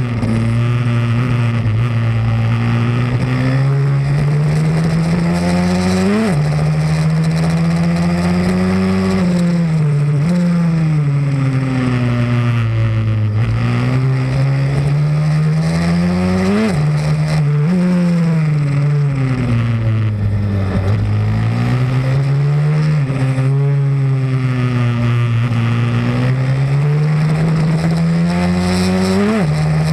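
Pit bike's single-cylinder four-stroke engine being ridden hard around a track. The note climbs under acceleration, drops sharply at each upshift and slides down as the bike slows for corners, over and over.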